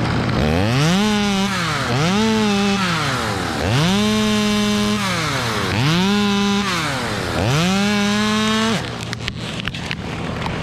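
Chainsaw revved up five times: each time the engine note climbs, holds at full throttle for about a second, then falls back. After the fifth rev it stops being revved, and only scattered clicks and a lower background remain.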